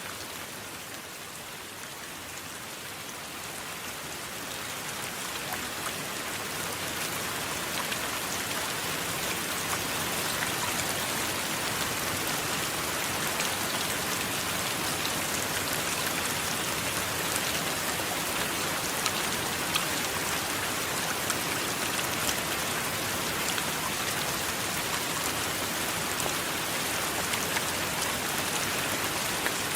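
Steady heavy rain with many small drop ticks, swelling over the first several seconds and then holding steady.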